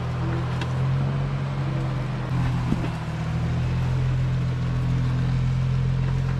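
Jeep Wrangler engine running at low, steady revs as it crawls down a rock ledge, a steady low hum with a slight change in tone about two seconds in.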